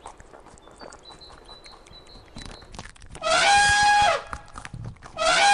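African elephant trumpeting twice, each call about a second long, a held note that falls away at the end. The first comes about three seconds in, the second near the end.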